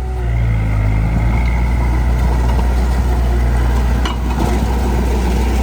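Heavy machinery's diesel engine running steadily with a deep low hum. There is a short knock about four seconds in.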